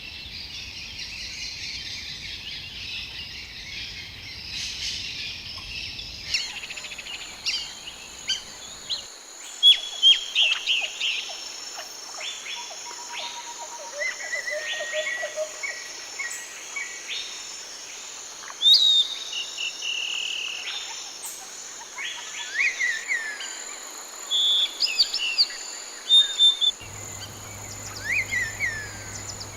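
Small birds chirping and calling: many short sharp notes and quick whistled sweeps over a steady high hiss like insects. The background changes abruptly about six seconds in, after which the chirps come thick and fast.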